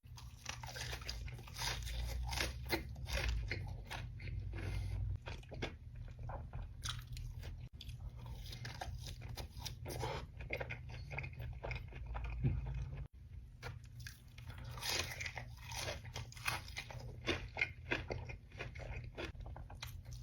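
Crunchy bites and chewing of crisp food: many crackling crunches in quick succession, broken off briefly about thirteen seconds in.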